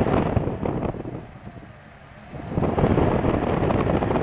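Honda Civic cabin blower fan running, a steady rush of air that drops away for about a second near the middle and then comes back. The fan is working again on its repaired resistor block, fitted with a new 1-ohm resistor.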